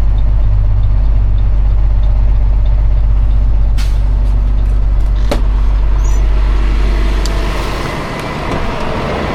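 Tow truck engine idling with a steady low hum, with two sharp clicks about four and five seconds in; near the end the hum drops away and wind noise on the microphone rises.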